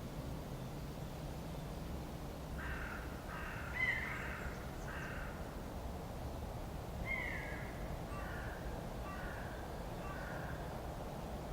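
A bird giving harsh, cawing calls: about four in quick succession a few seconds in, then a falling call followed by a few shorter ones, over a steady low background rumble.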